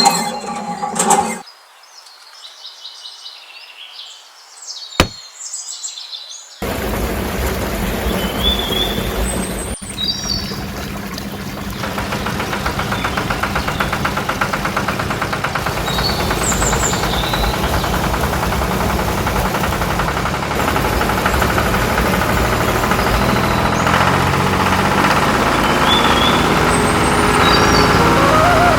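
A cow moos briefly at the start, birds chirp, and about six and a half seconds in a steady machine noise starts suddenly and runs on with birds chirping over it, growing slightly louder toward the end.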